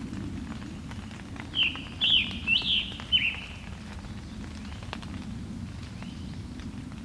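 A songbird singing a quick run of about five short, slurred, burry phrases about a second and a half in, over a steady low rumble.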